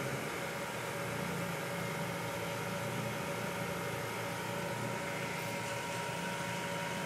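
Steady mechanical hum with a thin high whine, from the exhaust smoke leak-test machine running and pumping smoke into the exhaust.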